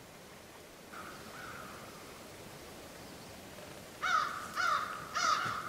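A bird calling outdoors: a faint call about a second in, then from about four seconds a run of short, loud, harsh calls that fall in pitch, about two a second.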